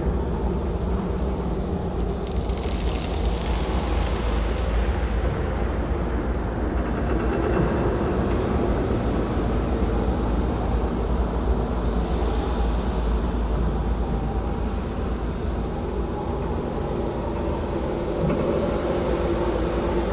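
Dark ambient soundscape: a steady deep rumble under sustained droning tones, with a swell of hiss about three seconds in and another about twelve seconds in.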